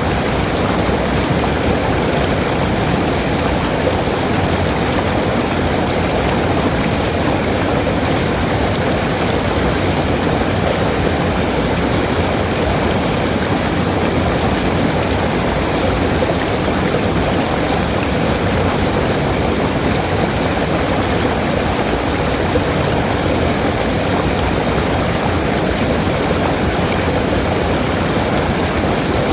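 Waterfall: falling water running as a steady, even rush with no breaks.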